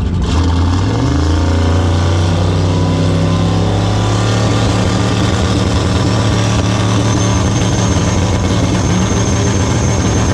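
Vehicle engine under load. Its note climbs about a second in, then holds at high, steady revs for several seconds while a thin whine above it slowly rises in pitch.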